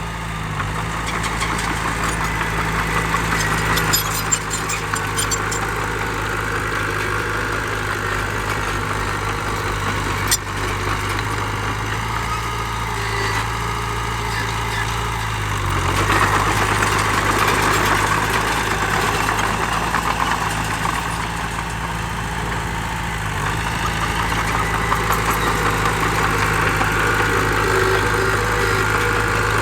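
Diesel engines of heavy earthmoving machinery running steadily, with a sharp knock about ten seconds in and the engine sound swelling louder for a few seconds past the middle.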